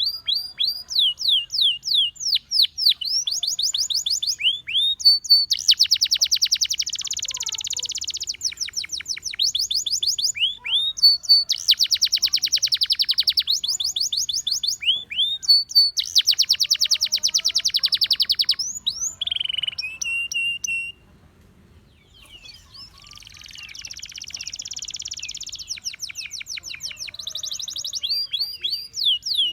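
Gloster canary singing: runs of quick, downward-sweeping notes alternate with long, very fast trills. The song breaks off briefly about two-thirds of the way through, then picks up again.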